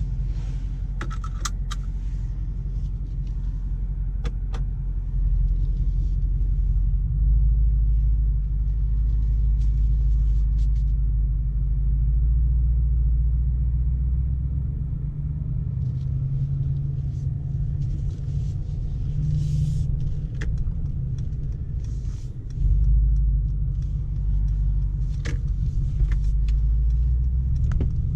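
The 4.0-litre twin-turbo V8 of a 2019 Mercedes-AMG G63 and its road noise while driving: a steady low rumble that grows louder twice, sharply so near the end, with a few faint clicks over it.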